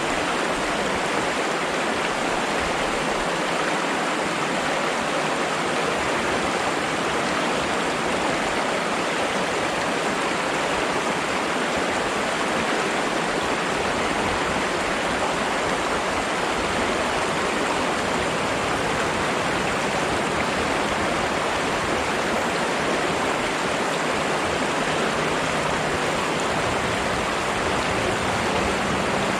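Flowing water: a steady, unbroken rush of running water.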